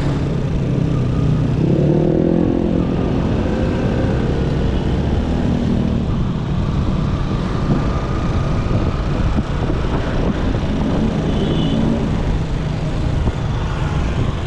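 Motorcycle engine running under way with road and wind noise. The engine revs up, its pitch rising, a second or two in, and picks up again briefly a few times after.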